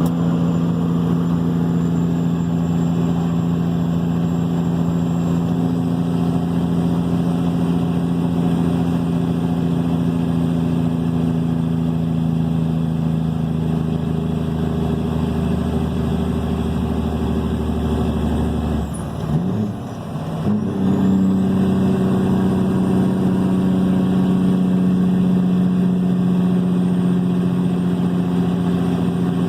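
Cat 3406E diesel in a straight-piped Kenworth W900 running steadily under way, loud through its 8-inch straight pipes. About two-thirds of the way through, the engine note briefly dips and wavers, then settles back to a steady pull.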